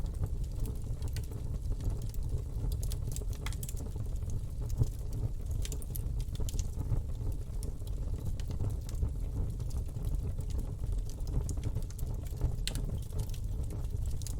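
Campfire burning: a steady low rumble of the flames with irregular crackles and pops from the wood.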